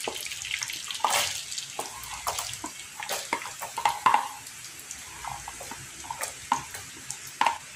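Chopped garlic sizzling in a pan of hot melted butter and oil, a steady hiss with many small crackles and pops. Now and then a wooden spatula clicks against the plate as the garlic is pushed off it.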